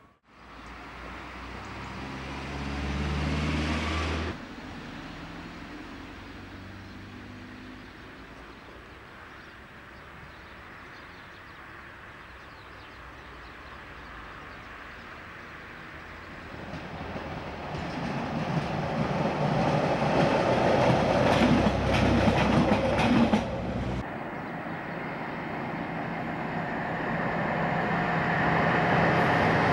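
Diesel trains on camcorder audio, in several short clips. Past the middle, a diesel multiple unit runs past, its engine and wheels louder as it passes, with clicks from the wheels on the track. Near the end, a diesel freight locomotive approaches, its engine growing louder.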